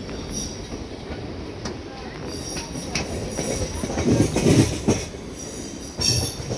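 Express passenger train in motion, heard from aboard: a steady rumble of wheels on the rails with occasional sharp clacks, swelling louder about four seconds in.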